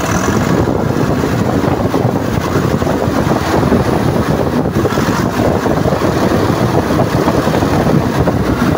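Nissan NV350's diesel engine running loudly and steadily at raised revs, close to the microphone, in a check run after repairs for a knock; the mechanic judges it fairly good now.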